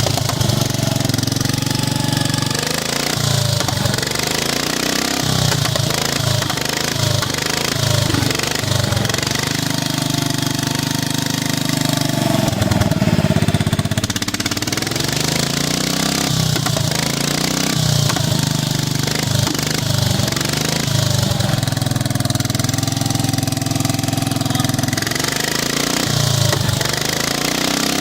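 Petrol engine with a brand-new carburetor running on choke while it warms up after a cold start. The idle is uneven, rising and falling, and gets louder for a moment about halfway through.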